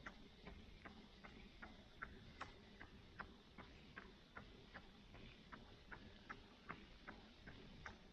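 Faint footfalls of a runner on a road, an even beat of about two and a half steps a second, over a faint steady hiss.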